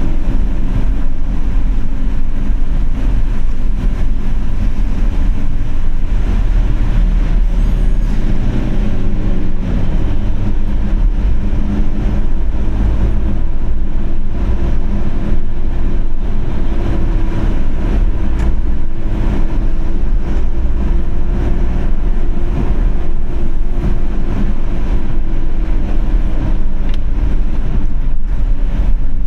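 A vehicle driving on a city street: a steady, loud low rumble of road and engine noise, with a constant engine hum.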